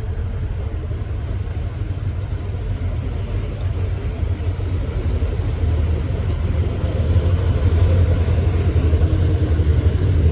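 Diesel locomotive engines running with a deep, steady rumble that grows louder over the last few seconds.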